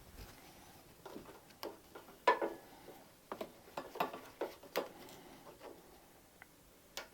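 Scattered sharp clicks and light knocks of hands handling and fitting plastic parts, the air filter going onto the diesel heater's air intake, the loudest knock about two seconds in.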